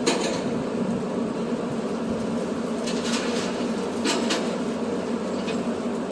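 Truck engine running with a steady hum, with a few short clicks heard over it.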